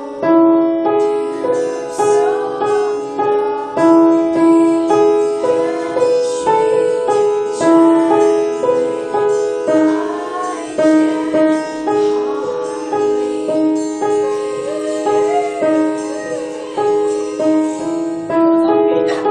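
Music: a piano tune of struck notes, each fading as the next one sounds.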